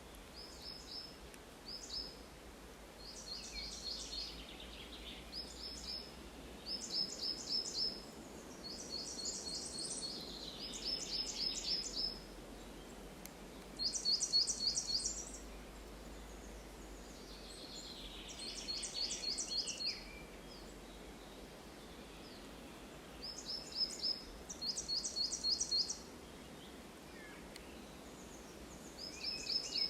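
Songbirds singing in a forest: one bird repeats a short, rapid series of high notes every few seconds, with fainter, lower calls from other birds behind it, over a steady background hiss.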